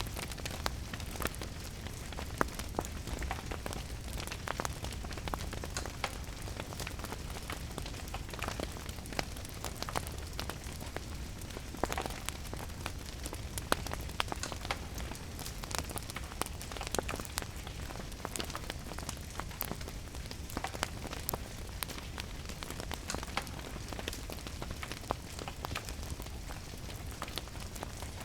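Steady rain with a wood fire crackling, its sharp pops coming irregularly over the continuous hiss of the rain.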